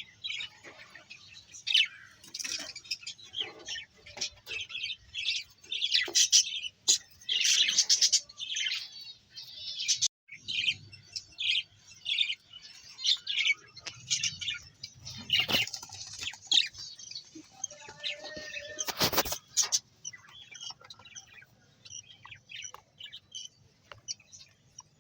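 Small birds chirping, many short rapid calls overlapping, thinning out in the last few seconds. A brief louder rustle-like noise cuts in about three quarters of the way through.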